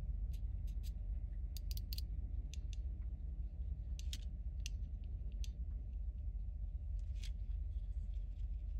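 Small plastic toy parts being handled and fitted, giving irregular light clicks and ticks over a steady low hum.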